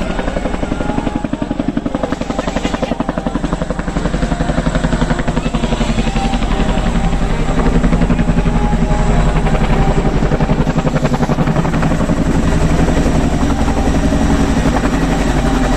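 Boeing CH-47 Chinook tandem-rotor helicopter flying low: a rapid, steady rotor beat with engine noise, getting louder about halfway through.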